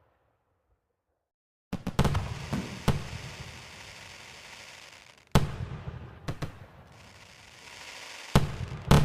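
Fireworks bursting: sharp bangs starting about two seconds in, coming singly and in quick pairs, each trailed by crackling.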